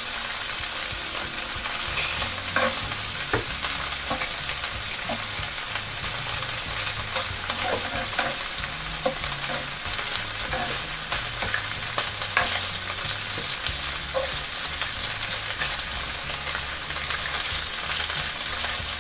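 Slices of marinated beef sizzling in a frying pan, with metal tongs clicking against the pan now and then as the pieces are turned.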